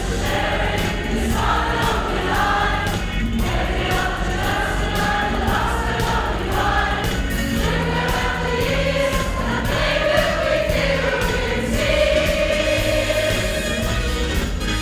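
Choir singing a song in several parts over musical accompaniment.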